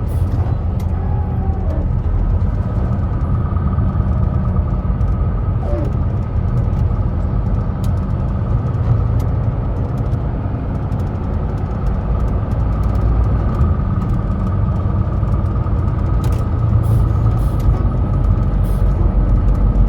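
Semi-truck cab while driving: a steady low engine and road rumble with a faint steady whine, and a few scattered clicks.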